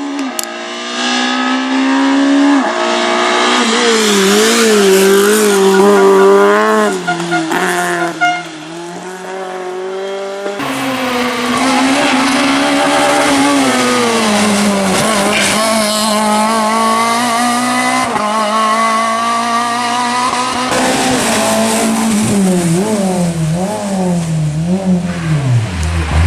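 Small Fiat rally car engines being driven hard on a stage. The engine note climbs and drops again and again with gear changes and lifts off the throttle. About ten seconds in the sound cuts sharply to another car doing the same.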